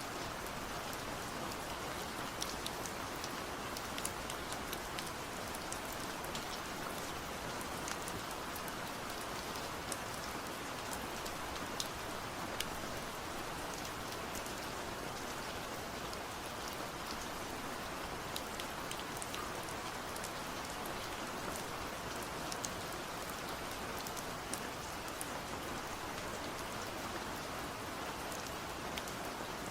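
Steady rain falling, with a constant hiss and many individual drops ticking sharply on a surface.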